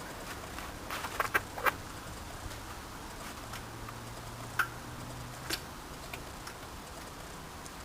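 A few scattered light clicks and taps: a quick cluster of them about a second in, then single ones later, over a faint low hum. No engine is running.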